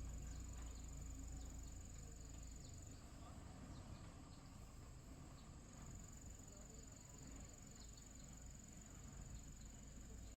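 An insect trilling on a steady high pitch, which breaks off for a few seconds midway and then resumes, over a faint low rumble.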